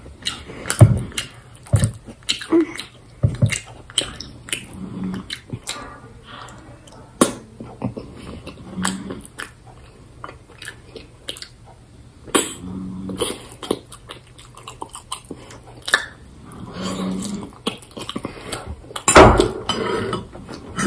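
Close-up eating sounds: chewing penne pasta in rosé sauce, with a metal fork clicking against a stainless steel bowl and plate. Several short low closed-mouth hums, and a louder burst near the end.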